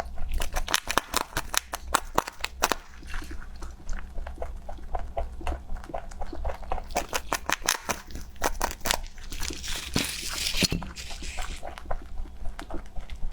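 An animal chewing crunchy food: a steady run of rapid crunching bites, with a short crinkling rustle about ten seconds in.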